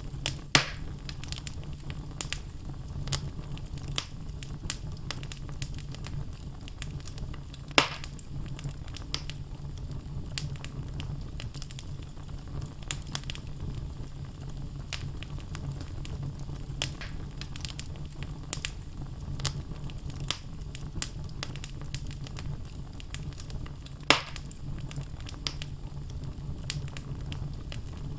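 Wood fire burning in a fireplace: logs crackling with many small snaps over a steady low rumble. Three louder pops stand out, just after the start, about eight seconds in, and about twenty-four seconds in.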